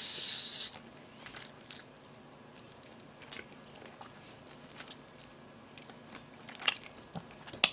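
Close mouth sounds of a person chewing boiled pork (bossam), with a few small wet clicks and smacks scattered through, more of them near the end; a short hiss right at the start.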